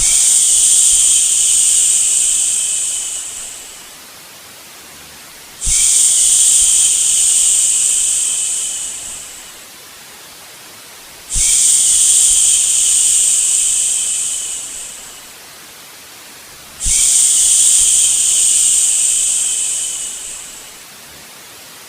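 A soothing "shhh" shushing sound for a baby, repeated four times about every five and a half seconds. Each shush starts sharply and fades over about four seconds, over a faint steady white-noise hiss.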